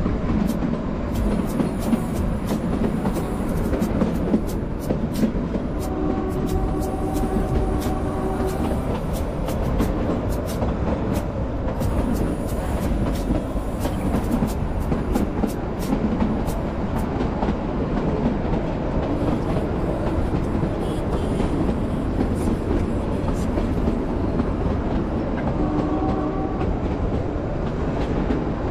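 Kalka–Shimla narrow-gauge toy train running, with a steady rumble and wheels clicking over the rail joints. A steady tone comes in twice, around a quarter of the way in and again near the end.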